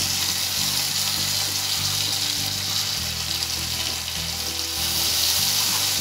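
Chopped tomatoes and sliced onions frying in hot mustard oil in a non-stick kadai, sizzling with a steady hiss.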